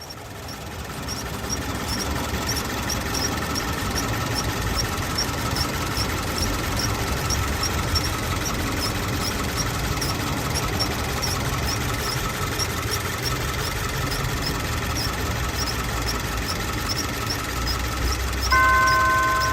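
Subaru BRZ's FA20 flat-four engine idling in the engine bay, with a faint high-pitched chirp repeating about two to three times a second: the intermittent whistling noise that a new V-belt did not cure and that persists with the air conditioning off. Near the end a louder steady tone of several pitches cuts in abruptly.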